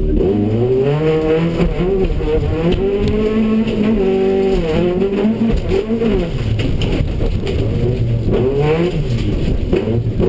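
Engine of a VW GTI tuff truck heard from inside the cabin, revving hard away from the start and rising in pitch, falling back at each gear change and climbing again several times. Scattered knocks come through as the car runs over rough dirt.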